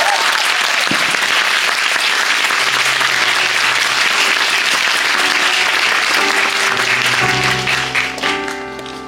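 Audience applauding steadily. Near the end the applause fades as music with held notes comes in.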